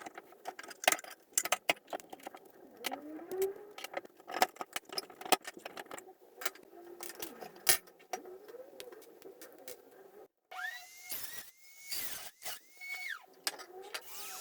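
Metal clinks, rattles and squeaks from a rusty pressed-steel Tonka toy truck being handled and worked on. After a cut about ten seconds in, a small power tool spins up and winds down three times in short bursts.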